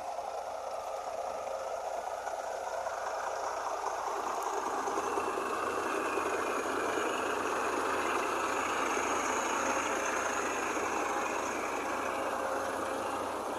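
A motor vehicle running, a steady engine and road rumble that grows louder from about four seconds in and eases a little near the end.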